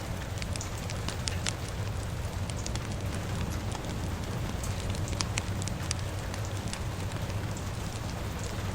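Crackling fire with irregular sharp pops over a steady hiss of rain and a low rumble.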